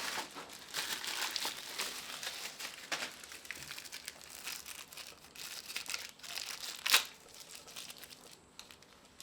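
Crinkling, rustling handling noise with one sharp click about seven seconds in.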